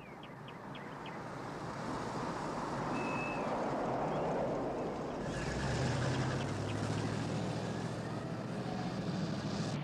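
A car driving, its road noise building over the first few seconds, then a steady low engine hum from about halfway through.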